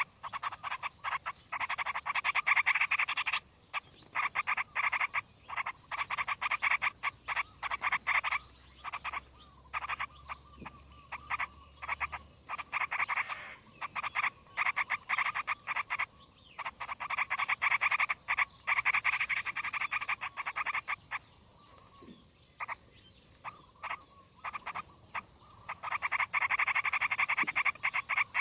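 Frogs croaking in repeated bouts of rapid pulsed calls, each bout lasting one to a few seconds with short pauses between.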